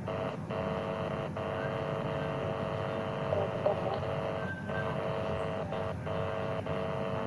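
Steady hum and hiss on a poor online-call audio line, with several brief dropouts where the signal cuts out for a moment.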